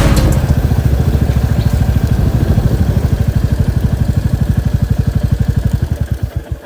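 Motorcycle engine idling, an even, rapid beat of low firing pulses that fades away near the end.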